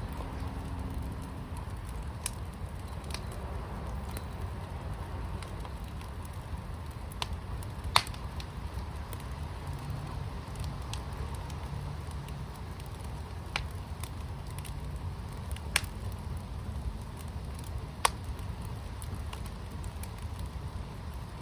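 Firepit fire burning with a steady low rumble and scattered sharp pops, about six in all, the loudest about 8 seconds in.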